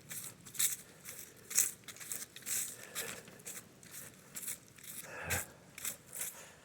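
Footsteps of a person walking at an even pace, about two steps a second, with one heavier thump about five seconds in.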